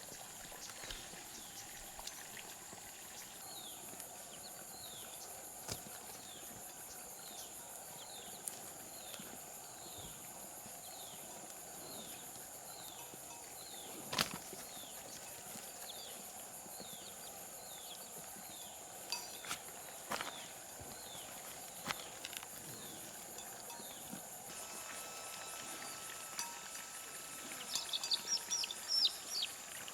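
Rural outdoor ambience: a steady high insect drone with a short falling chirp repeated about every two-thirds of a second, and a few sharp knocks. Near the end the chirping stops and metallic clinking takes over.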